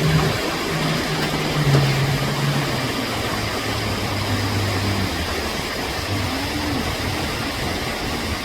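A motor engine running steadily, its pitch stepping down a few seconds in and then fading, over a continuous loud rushing noise.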